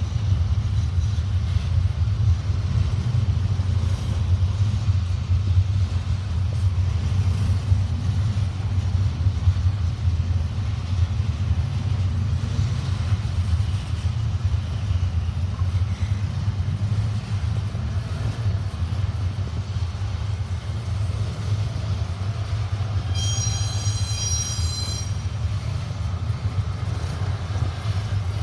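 Double-stack container train rolling past: a steady low rumble of freight car wheels on the rails, with a high-pitched wheel squeal lasting about two seconds near the end.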